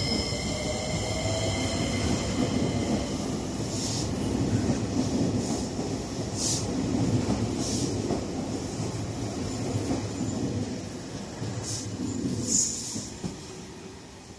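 JR Kyushu 885 series electric train pulling away and running past, with a whine rising in pitch in the first couple of seconds and the noise of wheels on rail, with a few sharp clicks. It is loudest a little after the middle and fades as the train draws away near the end.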